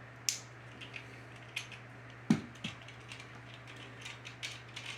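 Hard plastic parts of 3D-printed Beyblade tops being handled, giving scattered light clicks and taps with one louder knock a little past two seconds in, over a steady low hum.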